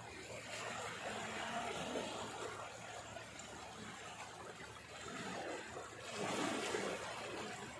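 Water sloshing and flowing, with a louder surge about six seconds in.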